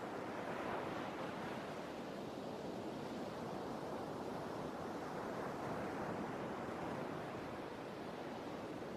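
Sea waves washing on the shore in a steady rush of surf, swelling about a second in and again near the middle.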